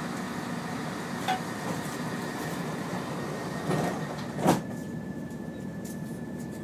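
Steady engine hum inside a ScotRail diesel passenger train standing at a platform. A few knocks break it, the loudest a thump about four and a half seconds in.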